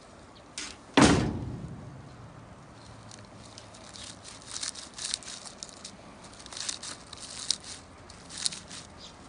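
A single heavy thud about a second in, dying away over about half a second, followed by scattered light clicks and ticks.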